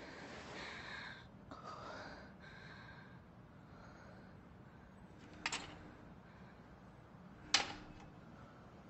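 A woman gasping and groaning in pain, then two sharp clicks about two seconds apart.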